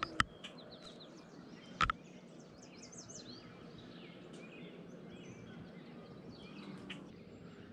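Faint bird song: many short, quick chirps and trills. A single sharp knock about two seconds in.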